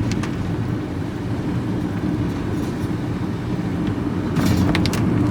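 Steady engine and road rumble heard inside a vehicle's cab while driving, with a few short clicks about four seconds in.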